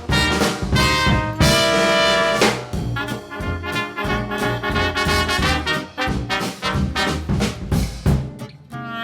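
Traditional jazz band music with trumpet and trombone over a steady beat, including one long held brass note about two seconds in.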